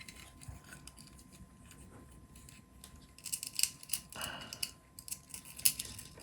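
Light clicks and small rattles of screws, nuts and a screwdriver being handled while fitting motor brackets to a robot chassis, sparse at first and busier in the second half.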